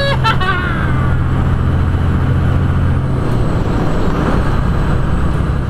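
Semi truck's diesel engine droning steadily, heard from inside the cab while driving; the low hum shifts about three seconds in.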